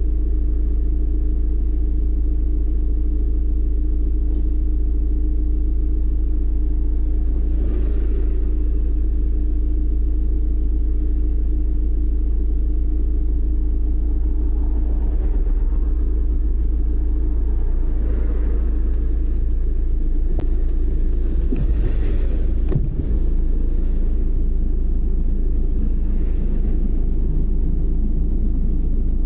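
Car driving along at a steady pace: a constant low engine and road rumble with a steady hum, and a few faint swells of hiss along the way.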